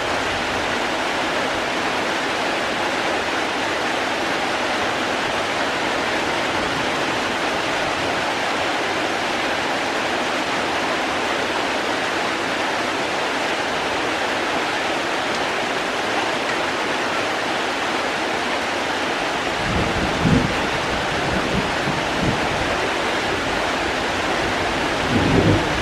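Steady rain falling with an even hiss. From about two-thirds of the way in, irregular low rumbles come and go on top of it.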